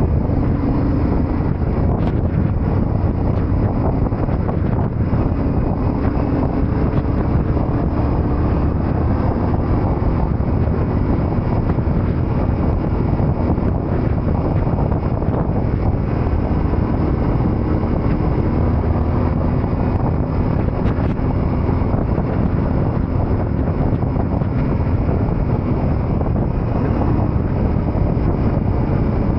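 Yamaha Ténéré 700 motorcycle's parallel-twin engine running under way while riding, its pitch drifting slightly, under heavy wind buffeting on the microphone.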